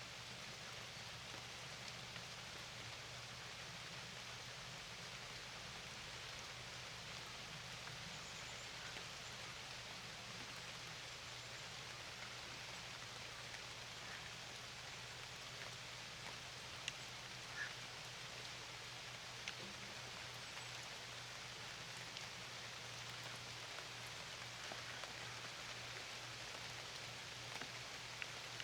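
Steady rain falling, an even hiss with a few single drops ticking out more clearly in the second half. A faint low steady hum lies underneath.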